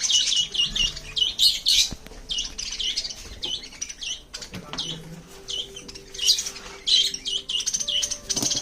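A flock of caged budgerigars chirping and chattering, with many short, rapid chirps overlapping.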